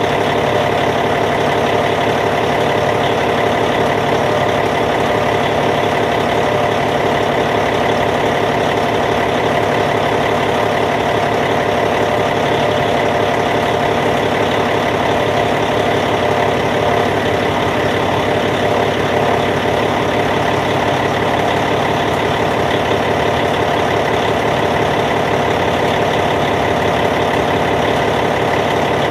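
Caterpillar C15 six-cylinder diesel engine of a D8T bulldozer idling steadily, with an even, unchanging tone.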